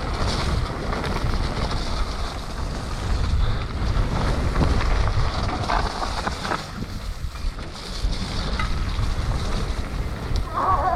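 Wind rushing over a riding mountain biker's camera microphone, with tyre noise and scattered knocks and rattles from the bike on a muddy descent.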